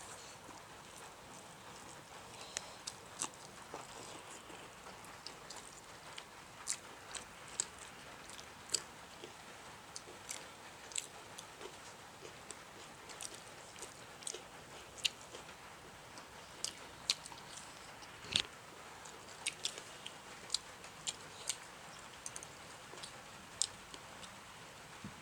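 Close-up eating sounds: people chewing chicken dum biryani, with frequent short, irregular mouth clicks and smacks.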